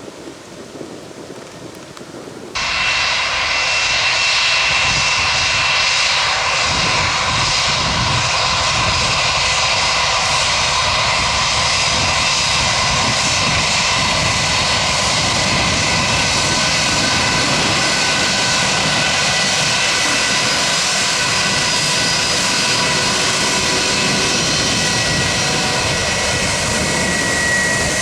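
Jet aircraft engines running loud: a steady rush with several whining tones, cutting in abruptly about two and a half seconds in after a stretch of faint wind noise.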